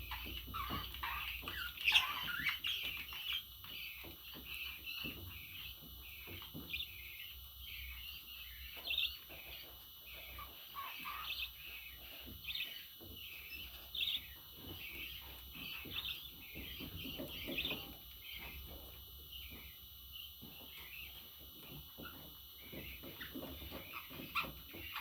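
Pet budgerigar chirping and chattering: a steady run of short, high chirps, the loudest about two seconds in.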